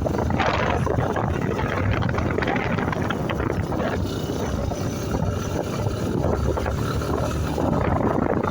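Motorcycle on the move: the engine runs under a steady rush of wind over the microphone.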